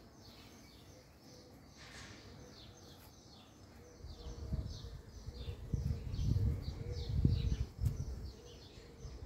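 A songbird chirping over and over in short, high, downward-sliding notes, two or three a second. In the middle a louder low rumble comes and goes for about four seconds.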